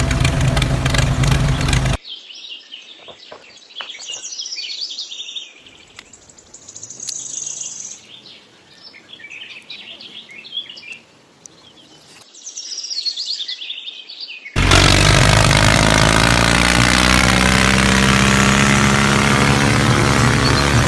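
Birds chirping in short, high, quick calls for about twelve seconds, between a loud steady machine noise that cuts off about two seconds in and a loud passage of music that starts near fifteen seconds.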